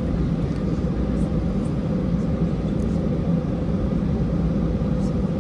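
Steady low rumble of an Airbus A320's engines and airflow heard inside the passenger cabin.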